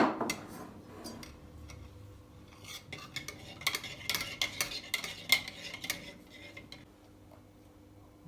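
A sharp clank at the start, then a metal spoon stirring and clinking against the side of a dish in quick, uneven strokes, stopping about seven seconds in.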